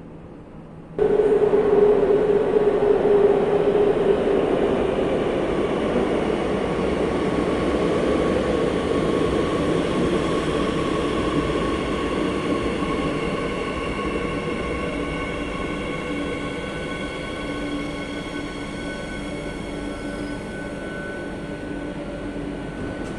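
Madrid Metro Line 8 train running, with the rumble of the wheels on the track and a steady electric motor whine in several tones. The sound starts abruptly about a second in and slowly grows quieter.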